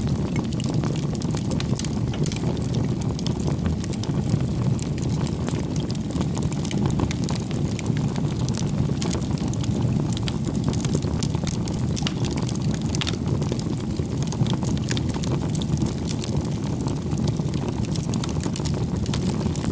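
Wood campfire burning, with frequent small crackles and pops of the burning wood over a steady low rush.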